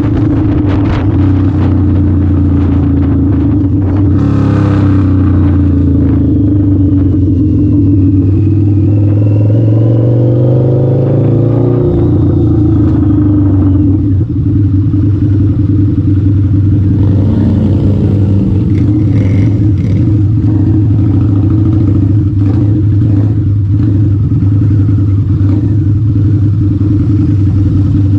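Harley-Davidson V-Rod motorcycle's V-twin engine running on the move. Its pitch rises steadily for a few seconds, then drops suddenly about twelve seconds in, and it settles back to a steady run.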